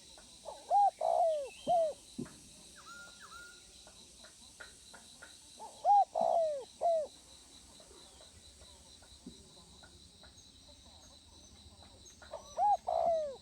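Spotted dove cooing: three phrases of three or four rounded coos, about six seconds apart.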